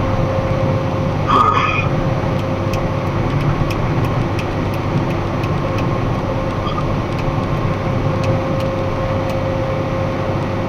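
Steady engine and road noise heard from inside a moving box truck's cab, with a steady hum under it. There is a brief louder sound about a second in, and faint regular ticking through the middle.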